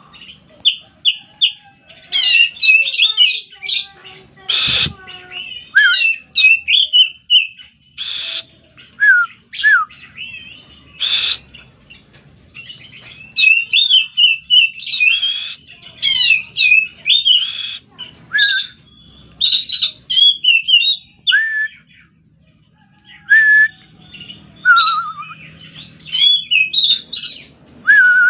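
Oriental magpie-robin (kacer) singing a varied song of quick whistled notes, slurs and short chattering phrases, with brief pauses between bursts. A sharp knock sounds about five seconds in.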